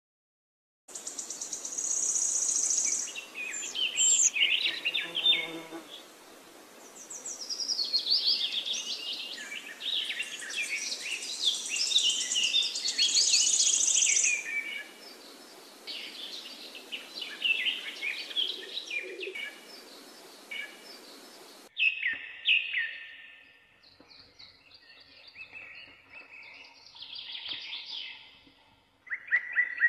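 Small birds chirping and singing in a busy chorus of short calls over a steady hiss. About two-thirds of the way through, the recording changes abruptly to sparser, quieter calls.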